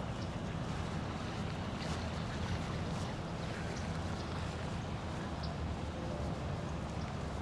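Steady low rumble of outdoor noise, even in level, with a few faint short high chirps scattered through it.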